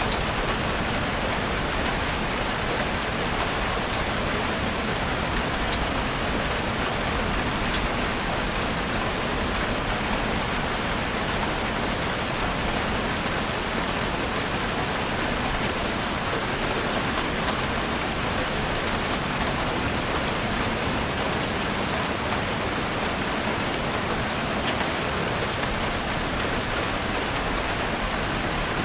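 Heavy rain pattering on a roof: a steady, dense hiss of drops with fine scattered ticks, unchanging throughout.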